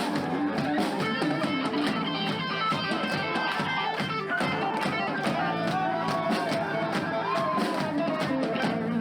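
Live band music with electric guitar over a steady drum beat.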